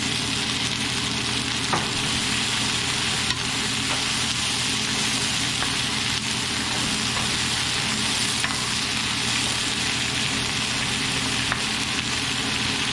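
Shredded cabbage sizzling steadily in a hot frying pan as it is stir-fried and stirred with a wooden spoon, with a few light taps of the spoon against the pan.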